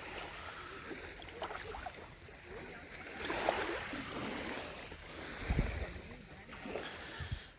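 Water lapping and splashing around a stand-up paddle board, with wind rumbling on the microphone briefly about five and a half seconds in.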